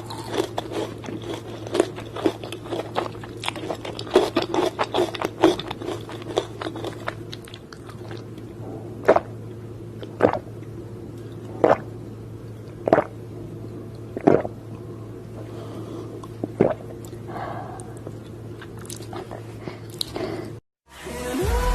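Close-up crunching and chewing of crispy fried chicken: rapid, dense crunches for the first several seconds, then single sharp crunches every second or so over a steady low hum. Music comes in right at the end after a brief silence.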